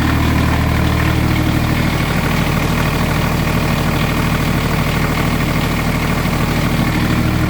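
Kubota G1800-S lawn tractor's diesel engine running steadily, warming up just after a hard cold start with glow plugs.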